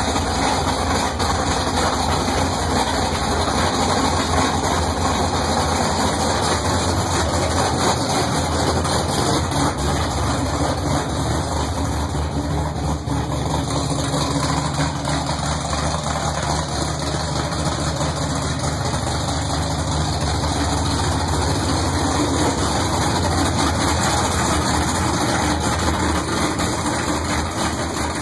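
1970 Pontiac Trans Am V8 idling steadily during its first run after being built up.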